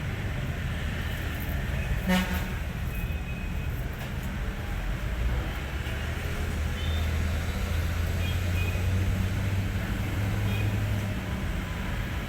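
Truck diesel engine idling with a steady low hum, with a brief rattle about two seconds in.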